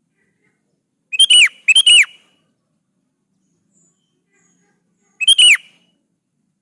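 Sooty-headed bulbul (kutilang) singing three short phrases of falling whistled notes. Two come close together about a second in, and one more comes near the end.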